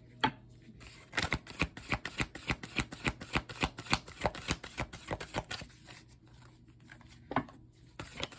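Tarot cards being shuffled by hand: a run of quick card slaps, about four to five a second, lasting several seconds, then a pause and a single slap near the end.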